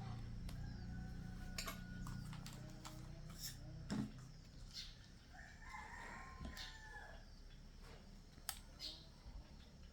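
Scattered sharp clicks and knocks, with a low hum that stops about four seconds in. An animal call, a rooster-like crow, comes about six seconds in and lasts a second or so.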